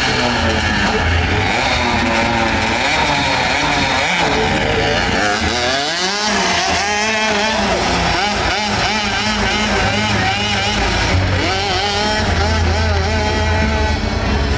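Several motorcycle engines running together, their pitch rising and falling as riders rev and pull away, over a steady low rumble.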